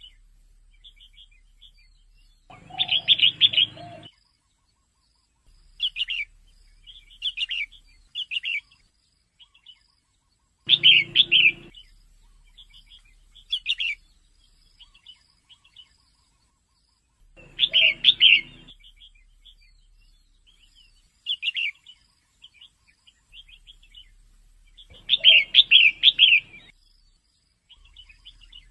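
Female red-whiskered bulbul calling: short chirpy notes, with a louder burst of several quick notes about every seven seconds and softer scattered chirps in between.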